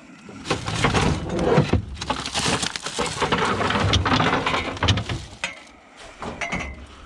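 Close handling noise of a dumped suitcase being pulled about and searched: dense rustling and scraping with many small knocks, easing off about five and a half seconds in.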